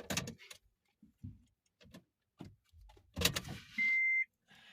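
Keys and car fittings clicking and knocking as someone gets into a car, with a thud about three seconds in like a car door shutting. Then the car's warning chime gives a steady high beep, and another begins right at the end.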